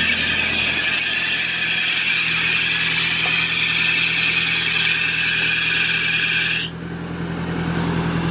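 Car engine idling with a steady low hum, under a loud, steady high hiss that cuts off suddenly about two-thirds of the way in.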